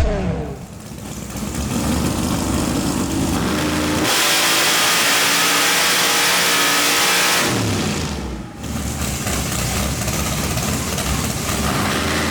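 Drag-race V8 of a Fox Mustang running on a hub dyno: revving up for about four seconds, then suddenly loud at high rpm for several seconds. It drops off briefly about eight seconds in, then runs hard again.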